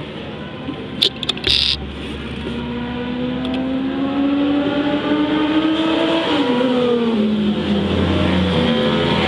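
Racing engine on track, its pitch climbing steadily under acceleration, then dropping suddenly and falling away as it slows, before rising again near the end. A few sharp crackles come about a second in.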